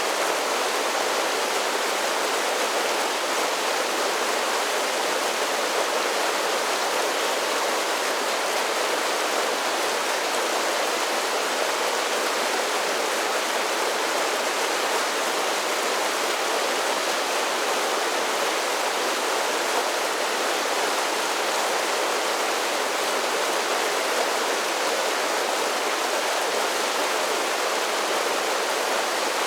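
Mountain creek spilling over a series of small falls: a steady, even rush of water that does not change.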